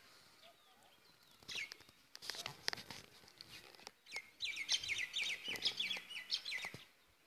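A small bird singing: a few scattered chirps, then about two seconds of rapid, high, repeated notes past the middle. A few sharp clicks are scattered through.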